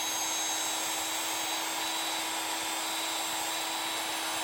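Battery-powered PEX expansion tool's motor running at a steady pitch, driving its expander head.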